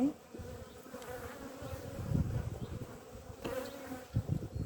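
Honeybees buzzing around an opened hive during a frame inspection, a steady many-winged hum, with a few low bumps about two seconds in and again near the end.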